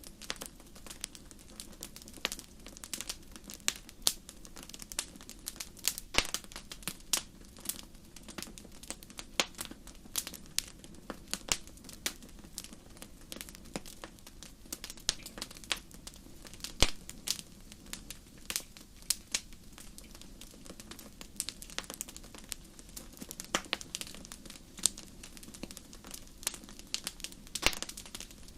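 Wood fire burning in a fireplace: irregular crackles and sharp pops, several a second, over a low steady rush of flame.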